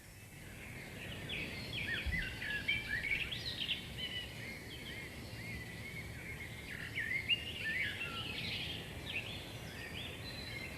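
Several songbirds singing and chirping at once in overlapping quick phrases, fading in over the first couple of seconds.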